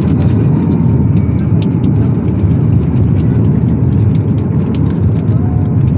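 Steady, loud rumble inside the cabin of a Boeing 737-8200 airliner during landing, with light rattling ticks over it.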